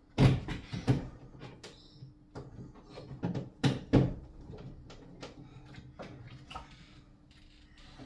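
Irregular knocks, taps and clicks of hard parts and tools being handled while screws are fitted into a shower fitting, loudest near the start and again about halfway through.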